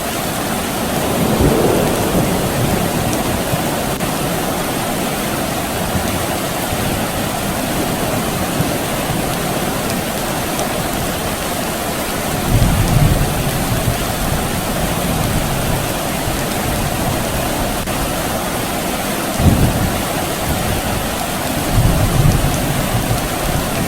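Steady rain falling, with low rumbles of distant thunder rolling in several times: once about a second and a half in, then around halfway, again later, and near the end.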